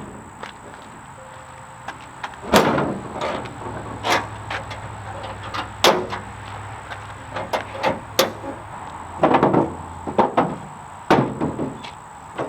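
Irregular knocks and clunks of wooden rack pieces being handled and set in place on a mini truck's bed, with a cluster of quick hits near the end.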